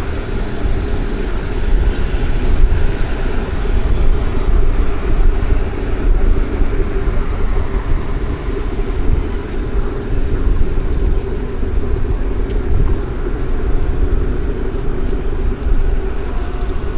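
Road traffic on a city street: vehicles running past in a steady, low rumble.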